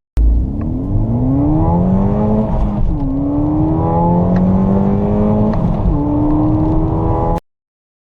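Car engine at full throttle in a 0-100 km/h acceleration run, its pitch rising steadily through each gear with two upshifts, about three seconds and about five and a half seconds in; the sound cuts off abruptly near the end.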